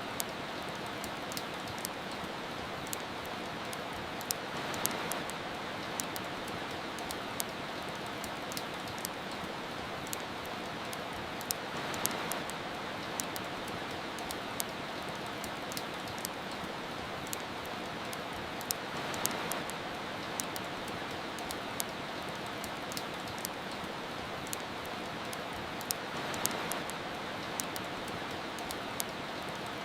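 Steady rain hiss layered with frequent sharp crackles and pops from a wood fire, with the rain swelling gently about every seven seconds.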